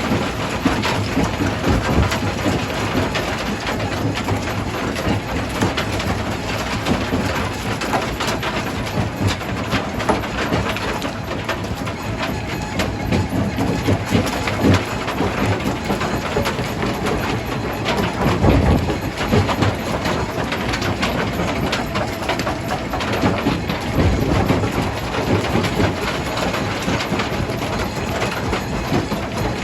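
Stone crusher machine running and crushing rock: a steady, dense clatter of stones knocking and grinding with the machine's hum, heavier for a moment about 18 seconds in.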